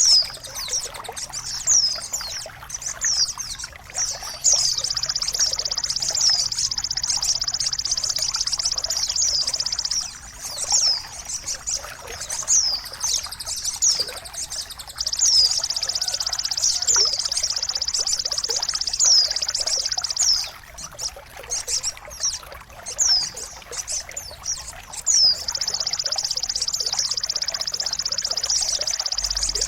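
Bird song of the kind played to tutor caged songbirds: a high, very fast trill held in long stretches, with short sharp falling chirps repeated about once a second over and between them.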